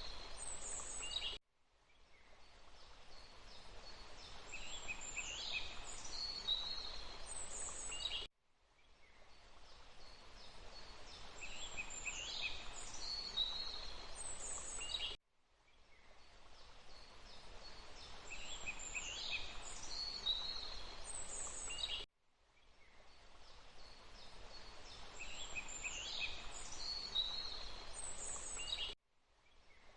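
Looped forest ambience: a steady rush of water with birds calling over it. The same short recording repeats about every seven seconds, each time cutting off abruptly and fading back in.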